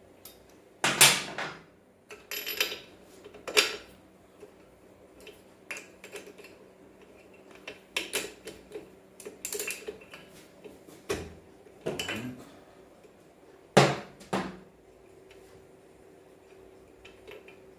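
Metal hand tools clinking and clanking on a moped's engine as the spark plug is taken out: a scattering of sharp, irregular metallic knocks a second or more apart, the loudest about a second in and about 14 seconds in.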